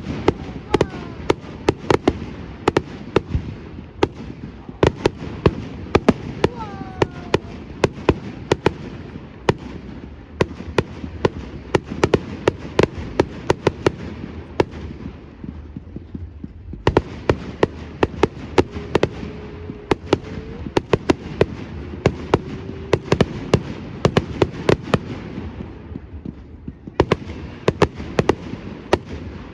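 Fireworks display: a continuous barrage of sharp bangs and cracks, several a second, over a steady low rumble.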